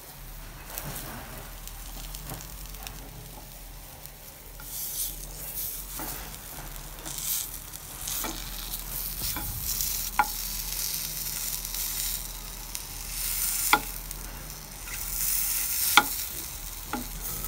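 Marinated chicken pieces sizzling in olive oil in nonstick pans while being stirred and turned with a wooden spatula. The frying hiss swells and fades in waves, with a few sharp knocks of the spatula against the pan.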